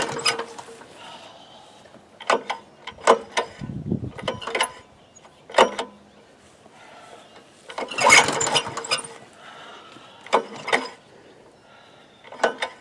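Recoil pull-cord starter of a 1987 Honda HRA214 lawnmower being pulled, with a long loud pull near the start and another about eight seconds in, and shorter clicks and rattles between; the engine does not catch and run. This is a restart attempt after a stall, which the owners put down to taking the choke off too soon.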